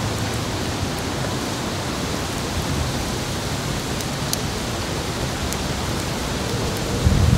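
Steady hissing noise, with a few faint sharp ticks about four and five and a half seconds in. Just before the end, low gusts of wind start buffeting the microphone.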